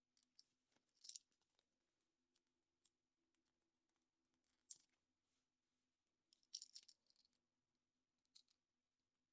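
Faint, scattered clicks and crinkles from hands handling a surprise egg's foil wrapper, plastic capsule and small toy parts, with the loudest cluster of clicks about two-thirds of the way through, over a faint steady hum.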